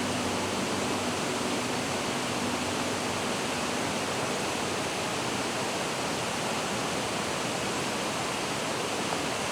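Steady, even rush of a flowing mountain stream.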